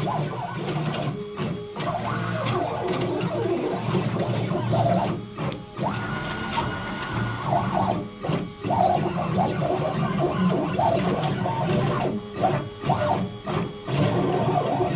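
CNC machine's stepper motors driving the drag-knife gantry, a whirring that shifts in pitch as the axes move, broken by brief stops between moves.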